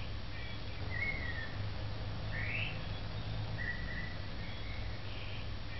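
Birds chirping in short whistled notes, with one quick rising call about two and a half seconds in, over a steady low hum.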